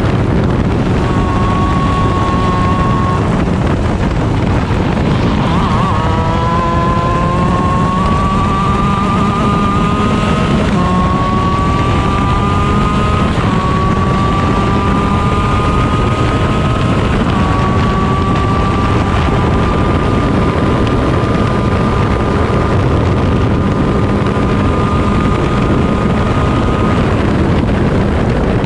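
Onboard sound of a stock Honda 125 cc two-stroke shifter kart engine at racing speed. It accelerates hard, climbing in pitch, with three quick drops in pitch as it is shifted up through the gears. It then holds high revs with a slow climb before easing off near the end. Wind buffets the microphone throughout.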